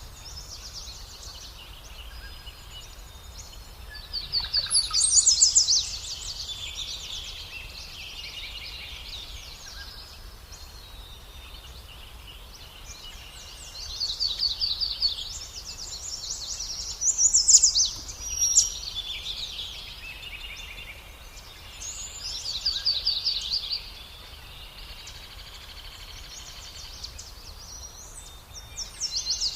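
Small birds' high-pitched begging calls, typical of nestlings being fed, come in rapid chattering bursts about five times, over a steady low background hum.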